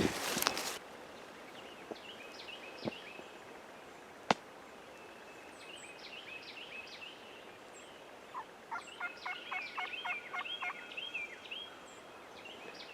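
A wild turkey gobbler gobbles once, a quick run of pulsed notes about two and a half seconds long, starting about eight seconds in and sounding neither close nor far; the hunters take it for a mature tom, not a jake. Small birds chirp faintly around it.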